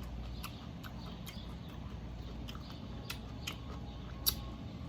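Close-up eating sounds: quiet chewing with scattered sharp mouth clicks, one louder click near the end, over a steady low hum.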